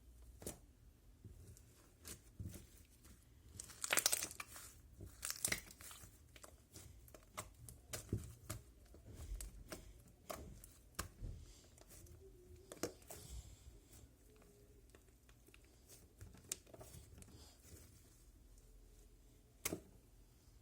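Handmade slime being squeezed and stretched by hand, giving irregular sticky pops and crackles, with the loudest cluster about four to six seconds in.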